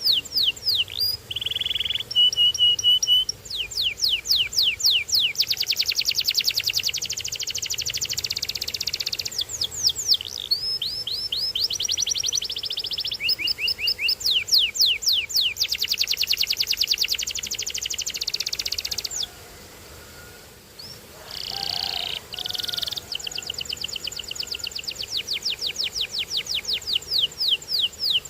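Domestic canary singing: long runs of fast repeated trills, each note a quick downward sweep, with a few short held whistled notes near the start. The song breaks off for about two seconds roughly two-thirds of the way through, then goes on.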